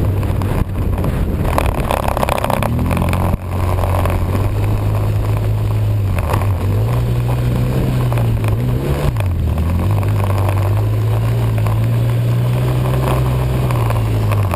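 Snowmobile engine running under way, its pitch holding steady then dropping and climbing again with the throttle about nine seconds in, over a steady rushing noise.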